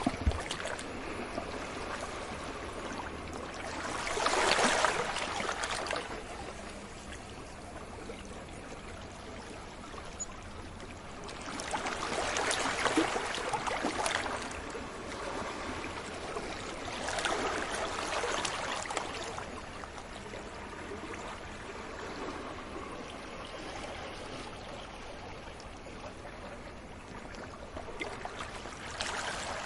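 Sea waves breaking gently on a beach: a steady wash of surf that swells louder about four times, each break lasting a couple of seconds before falling back.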